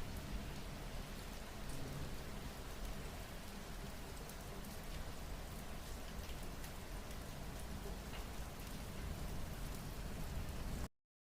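Steady rain falling, with scattered faint drop taps through the hiss. It cuts off abruptly near the end.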